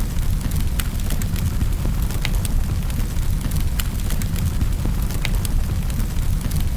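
Fire in a fireplace crackling: a steady low rumble of the flames with irregular sharp pops and snaps, several a second.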